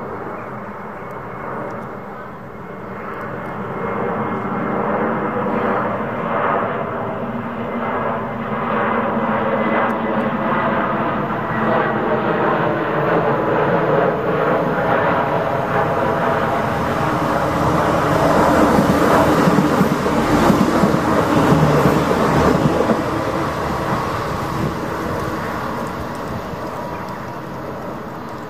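Irish Rail 29000 class diesel multiple unit coming through at speed, its engines and wheels on the rails growing louder to a peak about two-thirds of the way through, then easing off as it passes.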